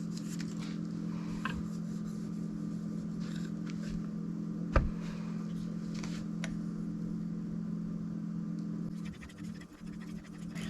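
A steel knife blade stroked across a fine whetstone in light, intermittent scraping passes, polishing the edge toward a mirror finish. A steady low hum sits underneath, and one sharp click comes a little before the fifth second.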